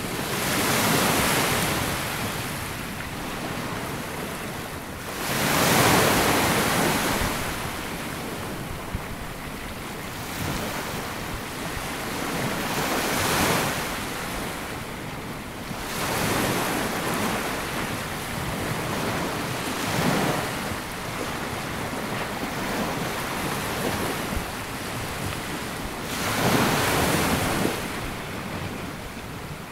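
Small waves breaking and washing up a sandy beach, each wash swelling and fading, about five in the stretch. Some wind noise on the microphone.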